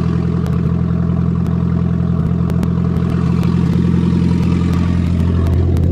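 A 1992 Nissan Stanza's 2.4-litre four-cylinder engine idling steadily through its makeshift exhaust, shortly after a cold start.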